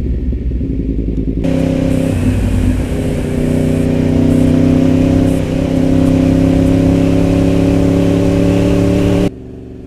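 Yamaha R1 sport bike's inline-four engine running at steady, moderate revs while riding, with wind rushing past. The sound drops away abruptly near the end.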